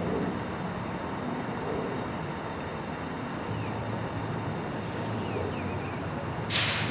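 Steady outdoor background noise of road traffic and wind on the microphone, with a short burst of hiss near the end.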